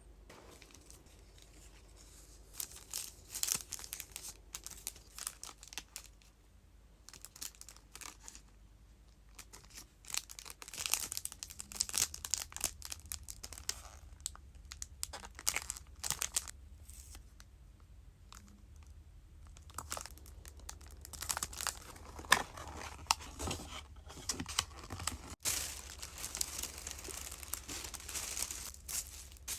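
Packaging being handled while packing a parcel: crinkling and rustling wrapping with short tearing sounds and many sharp little taps. It is sparse at first, gets busier about ten seconds in, and near the end there is a longer stretch of dense, continuous crinkling.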